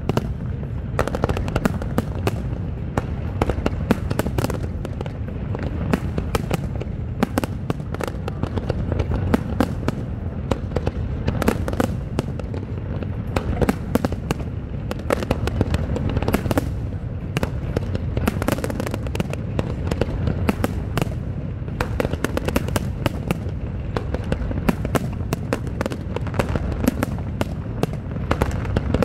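Fireworks display in full barrage: a dense, continuous run of sharp bangs and cracks, many a second, over a steady low rumble.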